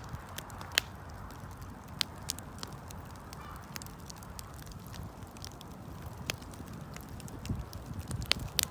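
Wood campfire burning, with sharp irregular pops and snaps, about one a second and busier near the end, over a low steady rumble of the flames.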